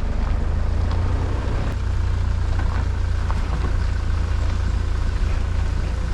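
A road vehicle driving at steady speed: a continuous low rumble of engine and road noise with an even hiss above it, with no change in speed.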